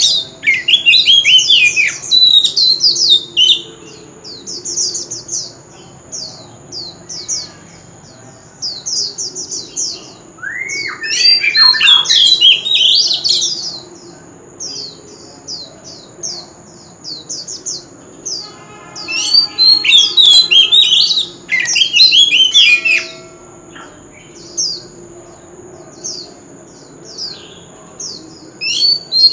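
Oriental magpie-robin singing: loud bursts of varied, sweeping whistled phrases several seconds apart, with rapid runs of short, high repeated notes in between.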